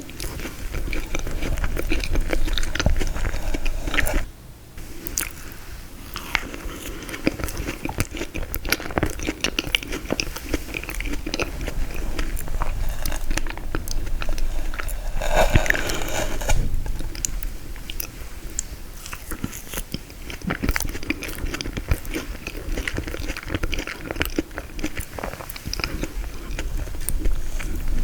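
Close-miked eating of frozen tiramisu: biting and chewing through the frozen ladyfinger and mascarpone layers, with many small sharp clicks, pausing briefly about four seconds in.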